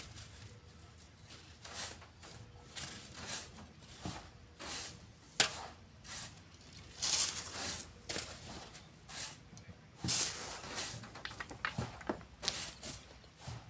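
Shovels scooping and tossing sand at an irregular pace, each stroke a short gritty rush. There is a sharp knock about five seconds in.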